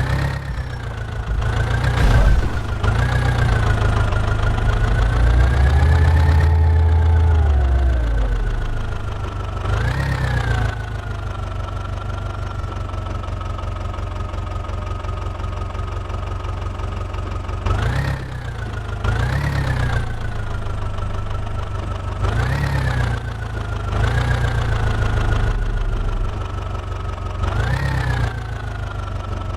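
Diesel engine of a JCB 3DX backhoe loader running at a steady idle and revving up briefly again and again, with one longer, heavier rev held for a couple of seconds about six seconds in, as it takes the load of digging and loading soil.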